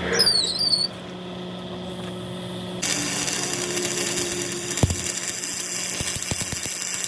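A power tool running steadily, with a brief wavering high-pitched squeal in the first second. It gets louder and harsher about three seconds in, with a few sharp knocks later on.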